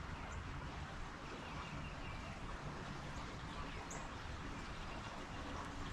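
Outdoor ambience over open water: a steady low background noise with a few short, high bird chirps now and then.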